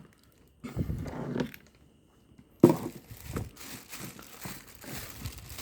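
Rustling and handling noise as the jump-start cable set, made of heavy welding cable with earth clamps, is moved about, with one sharp clack about two and a half seconds in.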